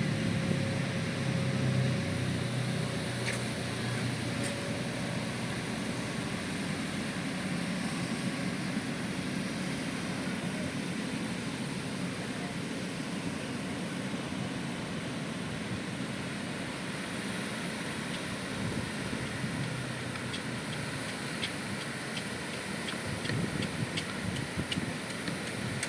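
Steady beach ambience: the even roar of surf and wind. A faint engine-like hum fades out in the first few seconds.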